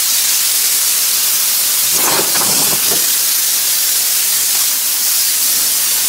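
A loud, steady, high-pitched spraying hiss, from air or water being jetted to clean a body shop floor before painting. A brief louder clatter sounds about two seconds in.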